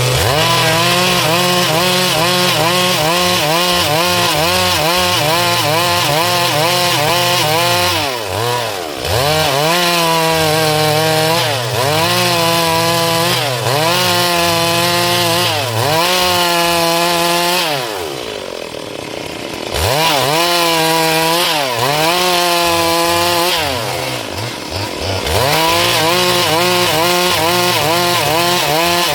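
Stihl MS 382 two-stroke chainsaw cutting into a dry log at full throttle, its engine pitch sagging under load and climbing again every couple of seconds. The throttle eases off briefly a few times, most deeply about two-thirds through, before the saw revs back into the cut.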